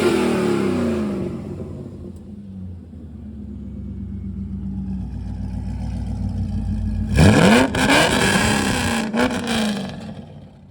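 2000 C5 Corvette LS1 5.7-litre V8 being free-revved. It drops back from a rev to a steady idle, then about seven seconds in it is blipped sharply several times and settles again. The seller says the engine has no knocks or ticks.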